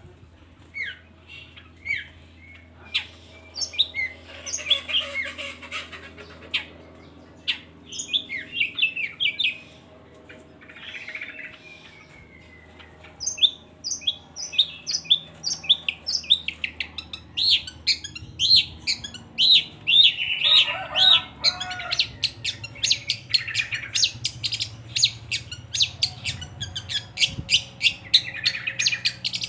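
Long-tailed shrike (cendet) singing: a varied run of short, high chirps and whistles. It is sparse at first and turns into a fast, dense chatter about halfway through.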